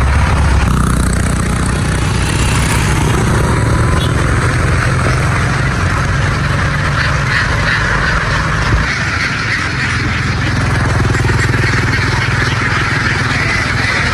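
A big flock of ducks quacking continuously over the steady hum of a running engine. The lowest part of the engine hum drops away about nine seconds in.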